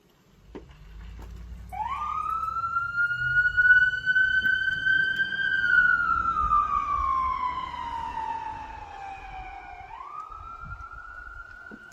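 Emergency vehicle siren sounding a slow wail: it starts about two seconds in with a quick climb, rises slowly, falls slowly for several seconds, then climbs again near the end. Under it runs a low rumble of vehicle engine and road noise.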